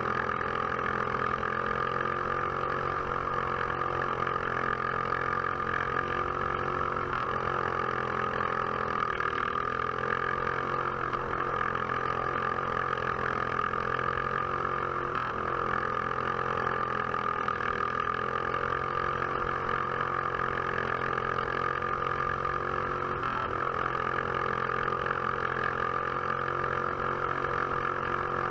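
Box stock class kart engine running hard at race speed, heard onboard with wind noise, its pitch holding steady and dipping briefly about every eight or nine seconds as the throttle eases.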